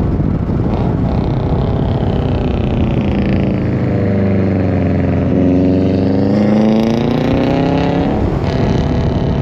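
A car engine running through its exhaust, loud and steady. Its pitch sinks over a couple of seconds about a third of the way in, then climbs again until near the end as the revs rise.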